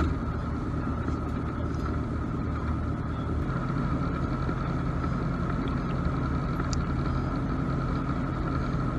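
Cessna 172's piston engine and propeller running steadily at taxi power, heard from inside the cabin. The engine note rises slightly about three and a half seconds in and then holds.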